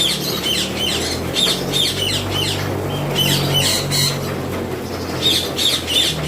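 Ringneck parakeets squawking: clusters of short, harsh, repeated calls coming in bursts throughout, over a steady low hum.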